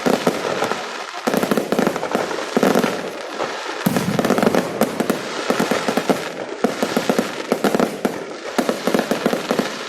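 Fireworks going off in a rapid, dense string of crackling bangs, with short lulls about a second in and near four seconds in.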